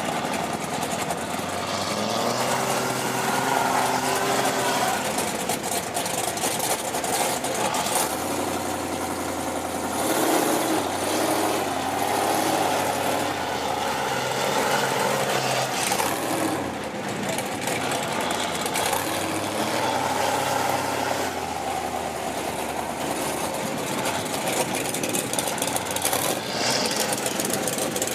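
Big truck engine running loud and revving, its pitch rising and falling over a dense, steady noise as the truck works through deep mud.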